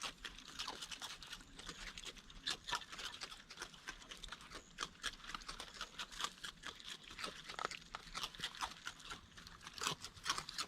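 Raccoon chewing dry Fruit Loops cereal: a quick, irregular string of crisp crunches.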